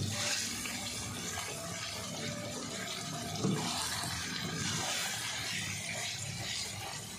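Chicken curry frying in a pan on a high flame: a steady sizzling hiss, with a wooden spatula stirring and turning the chicken pieces.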